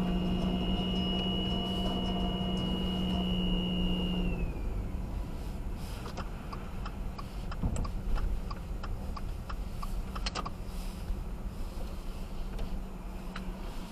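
2018 Subaru Outback 2.5i giving a steady high-pitched whining squeal with a low hum under it. About four seconds in, the squeal slides down in pitch and stops, as it does when the gas is let off. The owner ties the noise to cold idle and light throttle and suspects the CVT transmission or a charging-system fault. Then a run of regular light clicks, about two to three a second, over the low rumble of the car.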